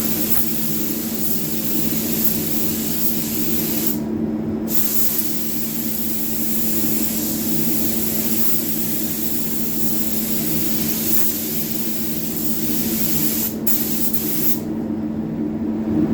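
Automotive paint spray gun hissing as a full coat of basecoat is sprayed onto a car body panel, with a short stop about four seconds in, a brief break near the end, then the trigger released. A steady low hum runs beneath.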